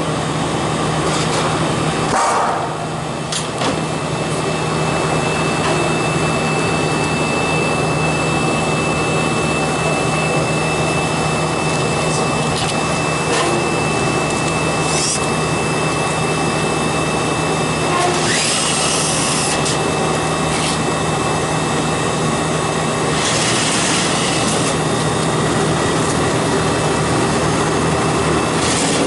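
A machine runs steadily with a low hum. Two short rushes of noise come in the second half.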